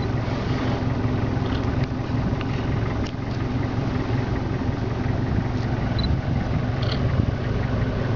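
A vehicle's engine idling with a steady low rumble, with a couple of faint short high chirps about six and seven seconds in.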